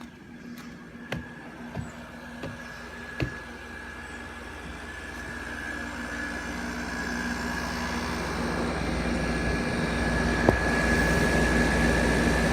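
Hampton Bay 12,000 BTU window air conditioner running, a steady hum and fan whir growing louder as it is approached. There are a few knocks in the first three seconds or so.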